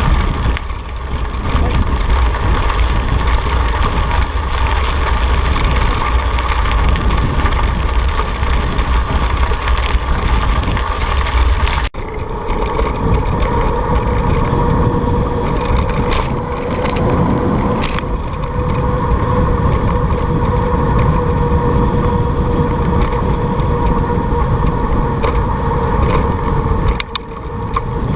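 Wind rushing over the microphone and road noise from a moving bike ride. There is a brief dropout about halfway, after which a steady hum runs underneath.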